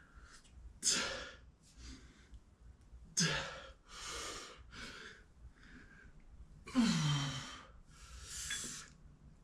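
A man breathing hard, out of breath from a set of leg exercise. There are about six heavy, noisy breaths, and two of them, about three and seven seconds in, are voiced sighs that drop in pitch.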